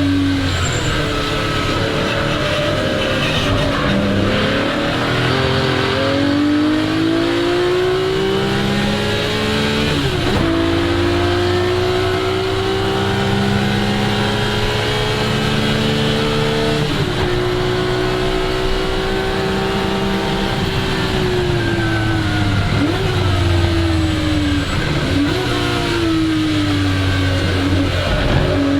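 1961 Ferrari 250 GT SWB's three-litre Colombo V12 at full throttle on track, the revs climbing in long pulls with upshifts about ten and seventeen seconds in. Later the revs fall away, with quick dips and rises as the car goes down through the gears.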